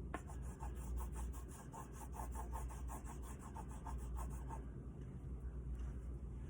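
Yellow oil pastel rubbed back and forth on paper in quick short strokes, about five a second, growing fainter after about four and a half seconds.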